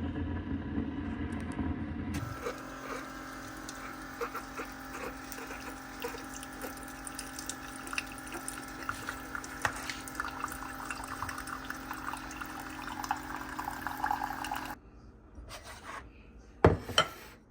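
Coffee maker brewing a cup: a low rumble for the first two seconds, then a steady hum with liquid streaming and trickling into the cup, which stops abruptly about fifteen seconds in, followed by a couple of short clunks near the end.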